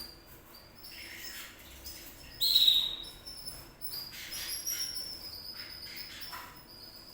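Canaries chirping and singing in short high notes, with one louder, harsher call about two and a half seconds in.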